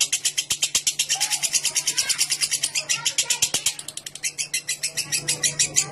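Lovebird giving its long ngekek trill, a rapid run of high, sharp chattering notes at about a dozen a second. The run falters briefly about four seconds in, then picks up again.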